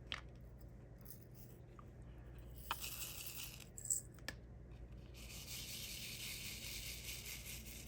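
Diamond painting at work: a few light clicks and ticks as small resin drills are handled and pressed onto the canvas. In the second half comes a soft, steady rattling hiss of the drills.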